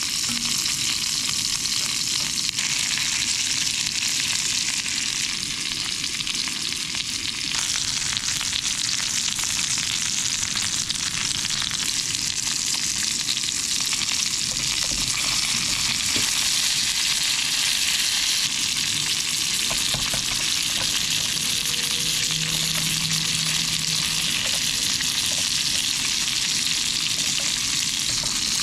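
Lamb chops frying in a pan, a steady sizzle with a few faint ticks.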